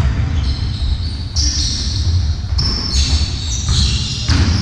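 Indoor game in a sports hall: a ball bouncing a few times over a steady low rumble, with high-pitched squeaks typical of shoes on a hall floor.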